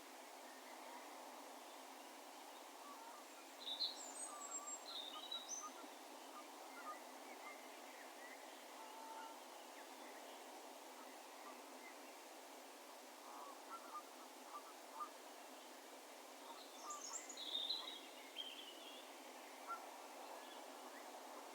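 Faint bird calls over a steady low ambient hiss of an open field at dusk. Two bursts of high chirping calls come about four seconds in and again near seventeen seconds, with fainter short calls scattered between.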